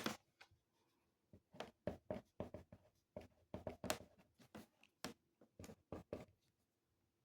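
Writing by hand on paper: a quick run of short pen strokes, one at the start and then a steady stream from about a second in, stopping near the end.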